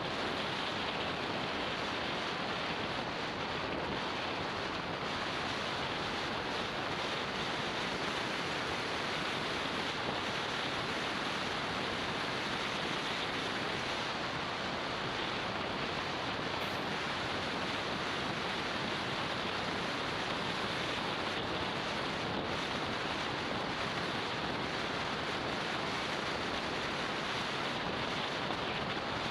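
Steady rush of wind over the action camera's microphone on a moving motorbike, with no distinct engine note standing out.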